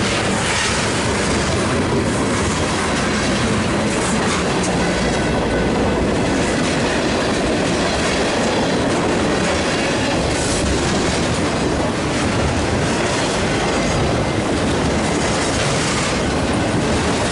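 Freight cars of a mixed freight train (autoracks, a refrigerated boxcar, tank cars) rolling past close by: a loud, steady rush of steel wheels on the rails, clattering over the track joints.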